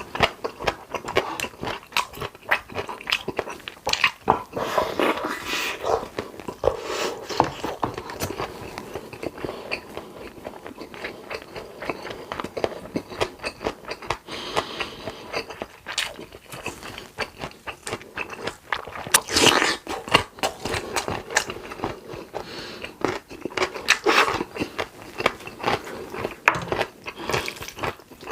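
Close-miked eating: chewing and biting with dense quick wet clicks, and a few longer, louder noisy stretches.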